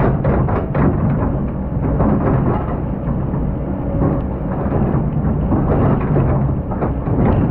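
Excavator's diesel engine running with a steady low drone, while sand and stones rattle and scrape as it digs; the rattling is densest at the start and near the end.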